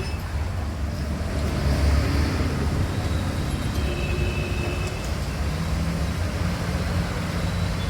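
Steady low rumble of a motor vehicle engine running, with a faint higher hum joining in about halfway through.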